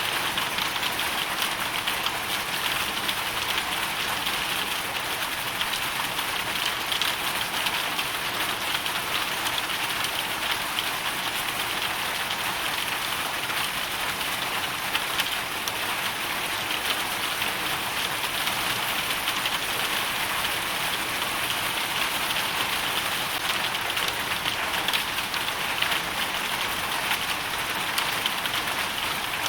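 Hailstorm ambience: a dense, steady patter of hail and rain hitting surfaces, without let-up.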